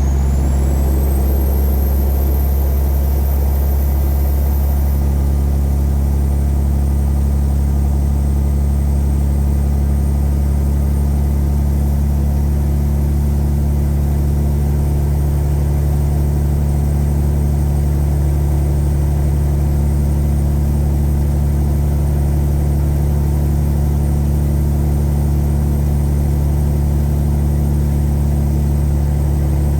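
Tuned Caterpillar 3406E inline-six diesel in a Freightliner Classic truck, running at a steady speed. A high whine rises over the first couple of seconds, then holds steady over the engine's drone.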